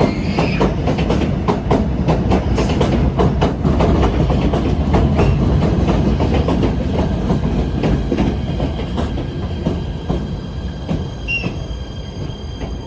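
Kawasaki PA5 PATH train pulling into the station: its wheels click over the rail joints, with brief squeals as it brakes. The clicks come farther apart and the sound dies down as the train slows.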